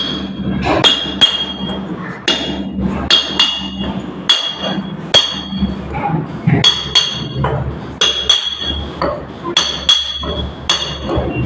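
Hammer blows struck irregularly, about once or twice a second, each with a sharp metallic ring, while PVC sheeting is being knocked loose. A steady low hum runs underneath.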